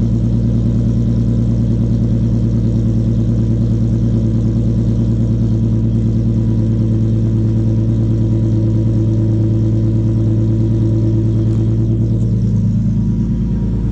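VQ37VHR V6 running at a steady idle on a cold start through a custom titanium single-exit exhaust with Motordyne high-flow Art Cats; its note changes slightly near the end.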